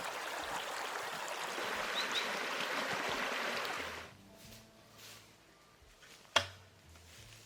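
Steady rush of flowing water that cuts off abruptly about four seconds in, followed by quiet and a single sharp knock near the end.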